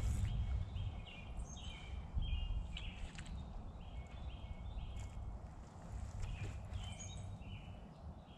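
A small songbird calling in repeated runs of short, clear notes, over a low rumble and a few crisp rustles of dry leaf litter underfoot.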